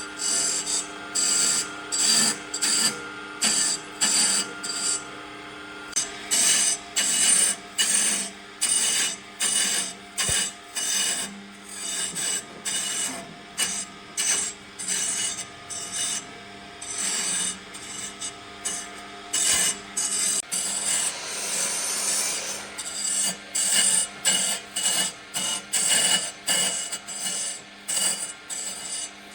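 Wood being worked by hand with repeated rasping strokes, about two a second, over a faint steady hum.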